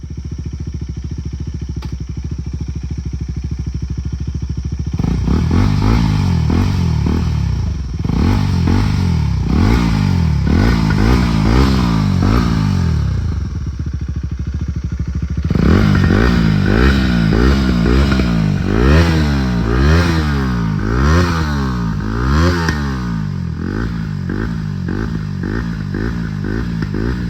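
KTM Duke 250's single-cylinder engine running with the exhaust removed, so it sounds raw and unsilenced. It idles steadily for about five seconds, then is revved again and again in quick blips that rise and fall in pitch, with a short settle toward idle partway through before more revving.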